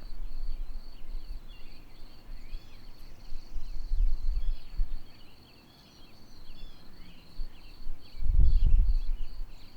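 Birds chirping over a steady, high, pulsing insect trill, like crickets. Low rumbles rise twice, around four seconds in and again near the end, and are the loudest sounds.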